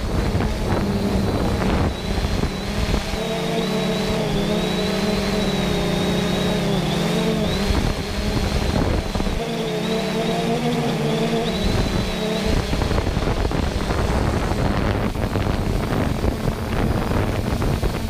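Quadcopter drone's electric motors and propellers buzzing in flight, picked up by the camera riding on it, with wind rumble on the microphone. A thin high whine holds over a low rumble, and a stronger hum of wavering motor tones swells in twice as the throttle changes.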